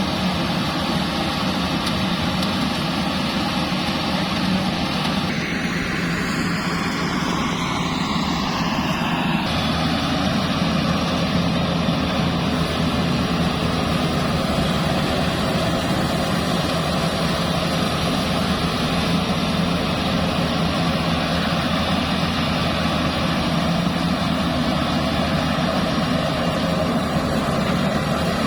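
Bimo Plus rice combine harvester running steadily, its engine and threshing works making a dense, even mechanical noise. About five to nine seconds in, a falling sweep in the higher sound passes over it.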